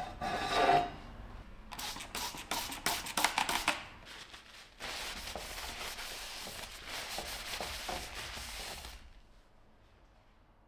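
Hand abrasive work on a metal or wooden part: a brief squeak, then a quick run of scraping strokes, then a few seconds of steady rubbing that stops near the end.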